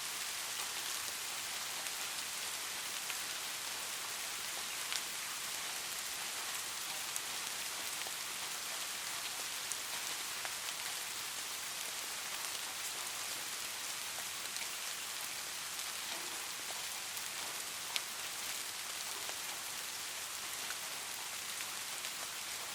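Steady light rain, a soft even hiss with scattered drop ticks standing out now and then.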